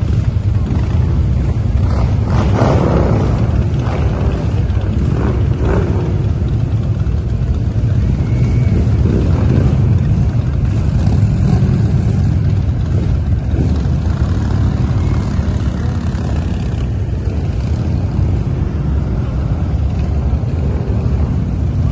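Motorcycle engines running with a steady, loud low rumble.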